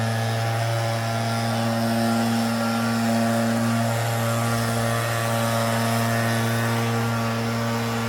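Compact excavator's diesel engine running steadily at a constant speed, an even drone with no change in pitch.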